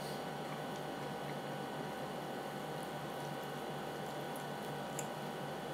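Steady background hiss with faint steady tones, and faint mouth sounds of eating: a few small soft clicks as a piece of soggy fried topping is bitten and chewed, the clearest about five seconds in.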